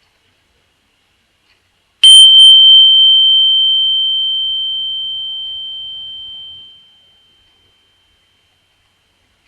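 A small meditation bell struck once, giving a single clear high ringing tone that fades away over about five seconds.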